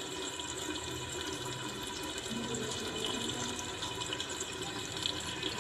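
Steady hissing sizzle of onions, tomatoes and spices cooking under the lid of a clay pot on the stove.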